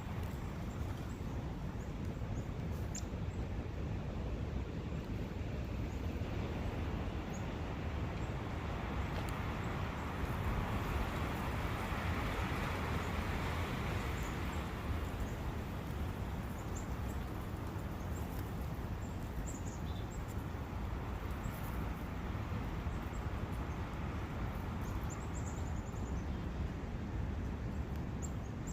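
Forest ambience beside a brook: a steady wash of running water and low rumble, with faint bird chirps here and there. About a quarter of the way in, a broad swell of noise builds, peaks near the middle and fades again.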